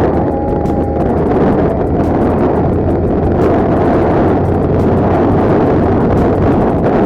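Heavy wind buffeting the microphone on a moving motorcycle, a loud steady rush with the vehicle's low hum underneath.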